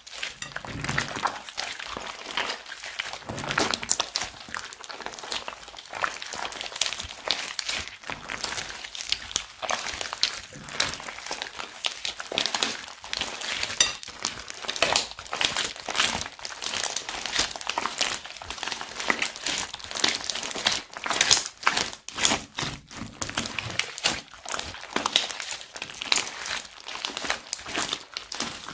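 Slime being squeezed and mixed by hand, giving a continuous dense run of sticky clicks and crackles.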